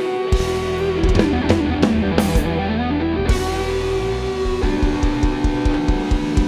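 Live band music with a lead electric guitar playing a solo line that slides down and back up in pitch, over sustained backing notes.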